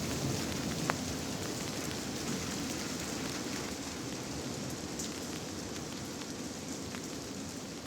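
Steady rain-like patter, slowly fading, with a few sharp drip-like ticks.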